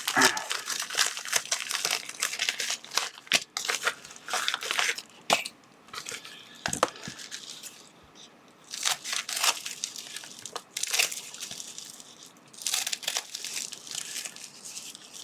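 Plastic packaging bags crinkling and rustling as items are handled and unwrapped, in irregular bursts with sharp crackles and a few quieter pauses.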